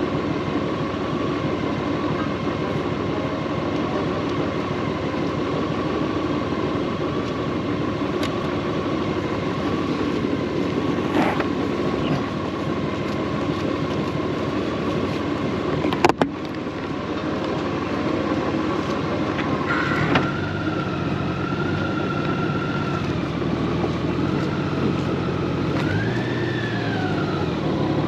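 Steady vehicle and traffic noise with a sharp click about 16 seconds in. From about 20 seconds a motorcycle engine note joins in, wavering and briefly rising and falling near the end.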